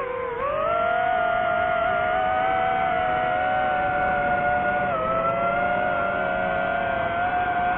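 DJI FPV drone's motors and propellers whining. The pitch sags in the first half second, rises again and then holds steady, with a brief dip about five seconds in.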